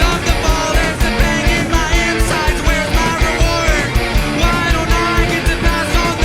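A punk rock band playing: a steady drum beat under guitars and bass, with singing.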